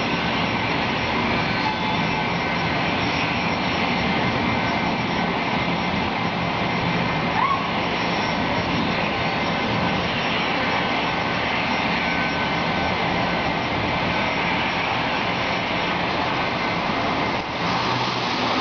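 Steady, even rushing noise of falling rain.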